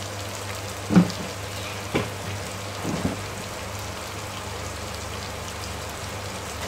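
Onions and tomatoes frying in hot oil in a wok, sizzling steadily, with three short sharp pops or clicks about a second apart early on, the first the loudest.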